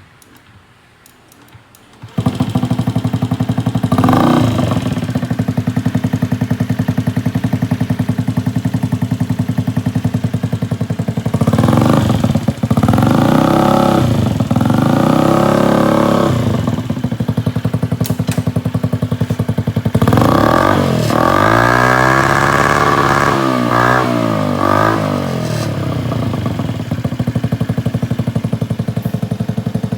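Honda Zoomer AF58 scooter's 49cc four-stroke single-cylinder engine, breathing through an aftermarket exhaust, starting about two seconds in and idling. It is blipped once shortly after starting, three times in a row a little before midway, then revved for several seconds with wavering pitch, before settling back to idle.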